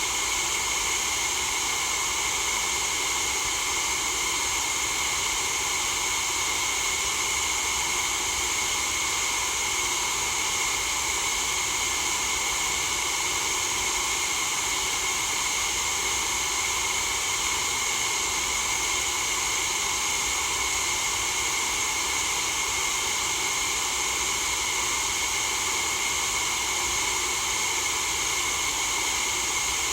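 Continuous white noise: a steady, unchanging hiss with no breaks or changes in level.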